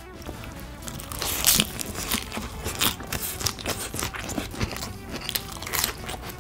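Close-up chewing of a mouthful of fresh salad greens: a rapid, irregular series of crisp crunches starting about a second in.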